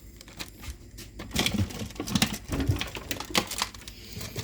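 A run of quick, irregular clicks and taps, starting about a second in.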